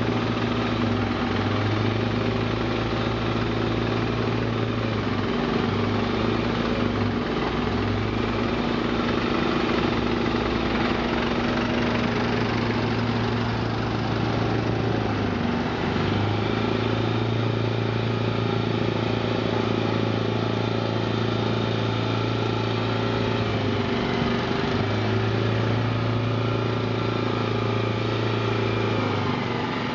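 Heavy transport truck's diesel engine running slowly with a steady low hum. The engine note dips and picks up again several times.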